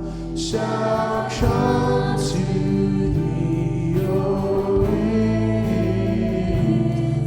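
Worship music played by a church band: sustained chords with voices singing along.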